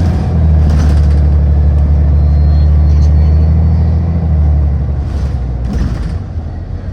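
City transit bus running under way, a loud steady low rumble from its engine and drivetrain that eases off about four and a half seconds in, with a few short hisses.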